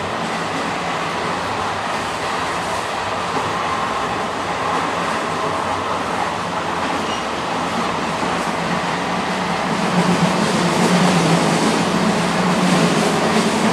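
Passenger train running along the track: a steady rumble and rail noise that gets a little louder about ten seconds in, with a low hum coming up.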